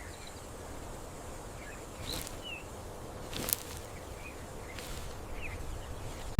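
Outdoor nature ambience: a steady low background noise with a few faint, short chirps and a single sharp click about three and a half seconds in.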